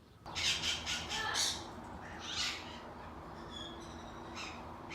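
Parrots squawking in short, harsh calls: a quick run of them in the first second and a half, then single squawks about two and a half and four and a half seconds in, over a faint steady hum.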